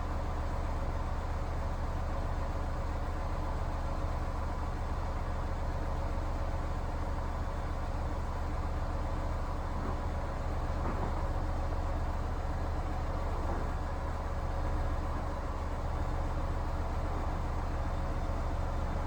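Honda S2000's inline-four engine idling steadily.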